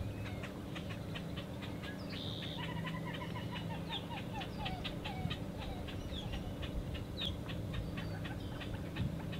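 Birds calling: a rapid chatter of short clicking, clucking notes, with a brief run of falling chirps a few seconds in, over a low steady hum.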